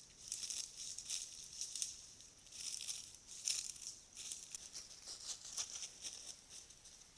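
An animal's footsteps in dry leaf litter: irregular rustling crunches coming in uneven bursts.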